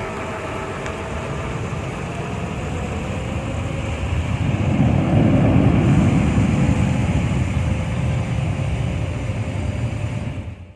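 Airliner jet engines running with a deep rumble and a faint whine that slowly drops in pitch. It swells to its loudest about halfway through, then eases, against a steady hiss of heavy rain. It cuts off abruptly at the end.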